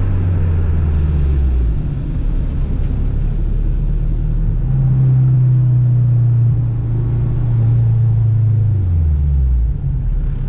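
Honda Civic engine running at low to moderate revs over a low rumble; its pitch drops early on, steps up about halfway through, then falls away again near the end as the car slows.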